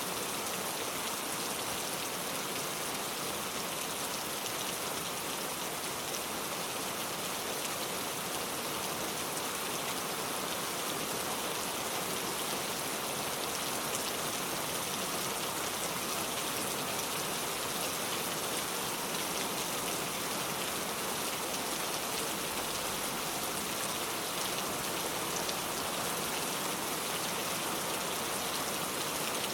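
Steady rain falling on a car, a dense even patter of drops.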